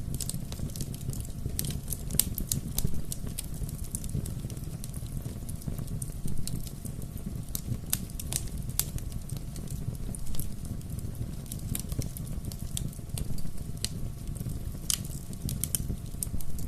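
Wood fire crackling: a steady low rumble of flames with frequent irregular sharp pops and snaps.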